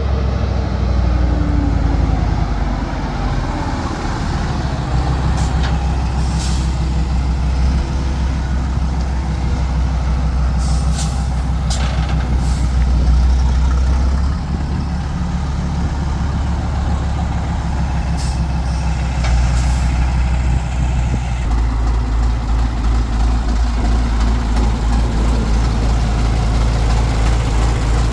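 A heavy truck's ten-cylinder diesel engine running, with short hisses of released air from its air-brake system a few times. About 21 seconds in, the engine note settles into an even, rapid low throb.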